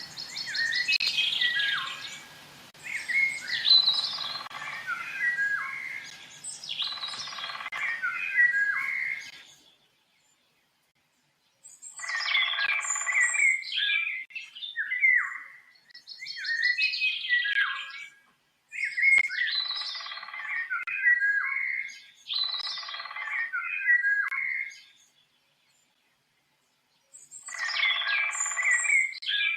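A songbird singing a complex, varied song in repeated phrases of two to three seconds each, with short pauses between them and two longer complete silences.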